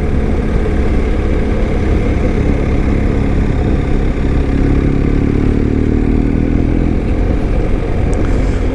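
BMW R1250 motorcycle's boxer-twin engine running under way, mixed with low wind rumble on the microphone; the engine note rises a little in the middle as the bike picks up speed.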